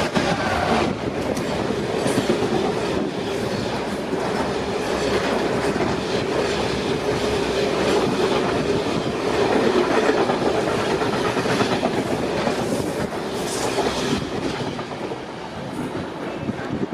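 Engineering train's wagons rolling past at speed, wheels clattering over the rail joints in a continuous loud rumble that eases slightly near the end.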